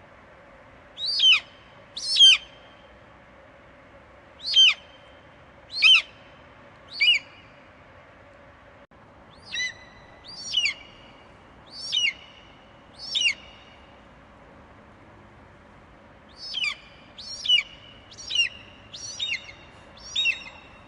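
Eagle giving a series of about fourteen short, high calls, each falling sharply in pitch, in three bursts with pauses between.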